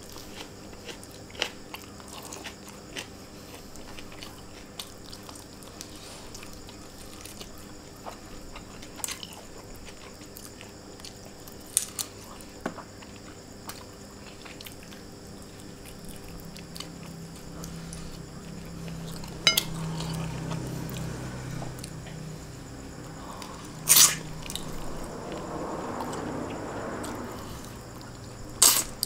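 Close-up chewing and mouth sounds of a person eating rice and chicken by hand: scattered wet clicks and smacks. A low hum runs through the second half, and two louder clicks come near the end.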